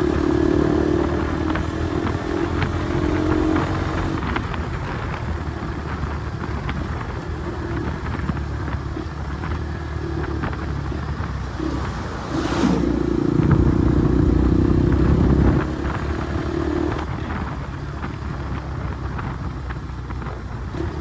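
Bajaj Pulsar NS200 single-cylinder engine running through an Akrapovic exhaust, with a steady note and a louder, higher-revved stretch lasting about three seconds a little past the middle.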